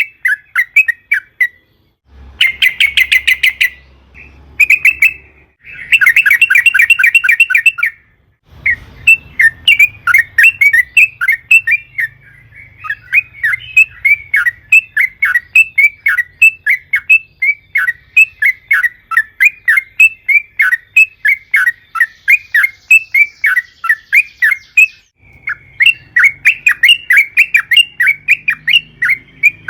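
Sooty-headed bulbul (trucukan) singing in long runs of quick, repeated chirping notes, with two short, very fast trills in the first several seconds.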